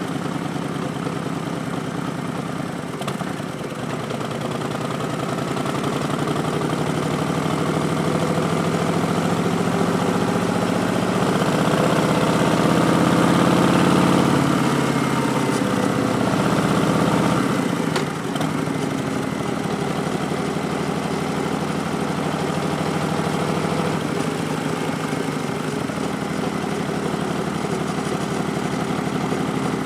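Harley-Davidson Street Bob's Milwaukee-Eight 107 V-twin running through Vance & Hines Twin Slash slip-on exhausts, its revs and loudness climbing steadily for several seconds, then dropping away a little past the middle before holding steady.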